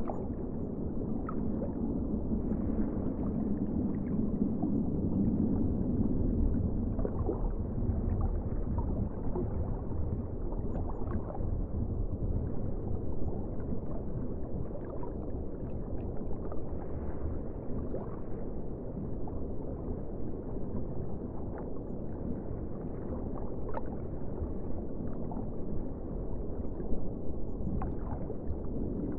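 Muffled ocean water ambience: a steady, low rushing wash with scattered faint clicks, swelling a little a few seconds in.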